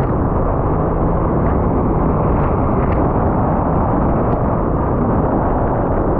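Sea-Doo jet ski running under way: a steady engine drone buried in constant rushing water and wind noise.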